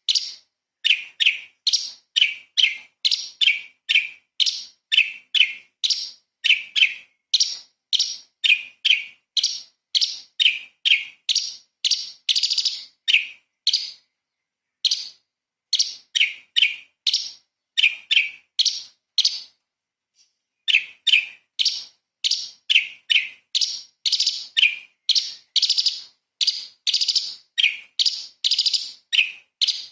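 Cucak cungkok, a leafbird, singing a fast run of short, sharp, high calls, about two a second, with two brief pauses about halfway through.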